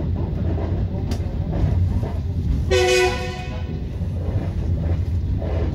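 Passenger train running, a steady low rumble of wheels and carriage, with a short horn toot about three seconds in.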